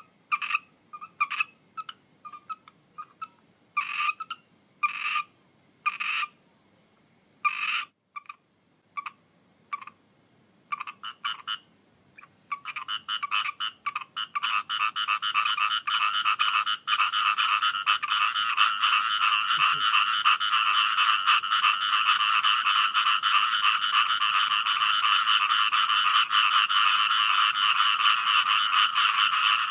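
Frogs croaking: scattered single croaks at first, building from about 13 seconds in into a dense, continuous chorus of many frogs.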